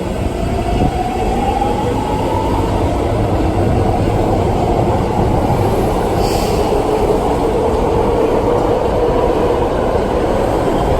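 BART legacy-fleet train pulling out of the station. Its wheels rumble on the rails under a motor whine that rises slowly in pitch as the train picks up speed.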